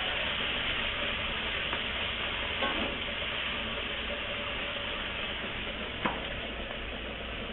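Food sizzling steadily as it fries in oil in a wok over a gas burner, stirred with a metal spatula that scrapes and taps against the wok, most sharply about six seconds in.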